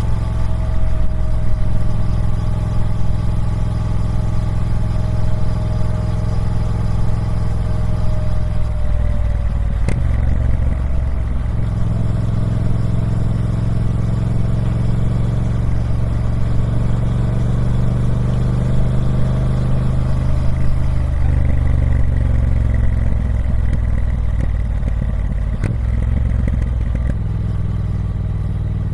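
Triumph Speed Twin 1200's parallel-twin engine running through its stock exhaust, the note sliding slowly down for the first ten seconds. A sharp click with a change in the engine note comes about ten seconds in and again a few seconds before the end.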